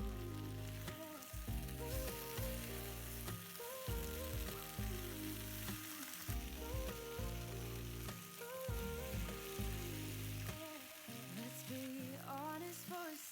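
Food frying in hot fat in a pan, with a steady sizzle, under background music with a repeating bass and melody.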